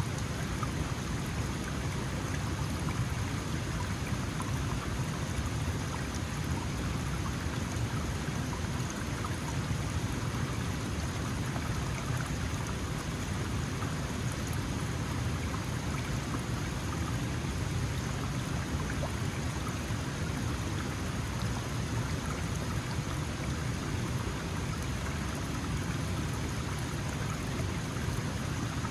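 Small mountain stream flowing steadily over rocks, a constant rushing and babbling with a full low rumble.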